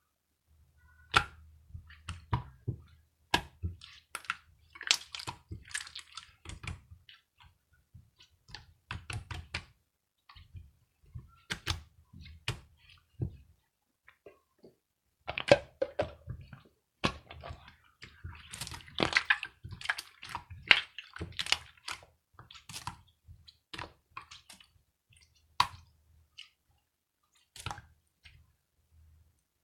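Slime being squished and poked by hand, making irregular sticky clicks and pops, thicker in the middle stretch.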